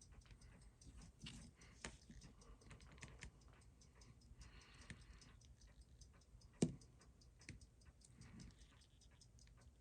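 Faint, steady ticking of a clockwork escapement, about six quick ticks a second. A single sharper knock sounds a little past halfway.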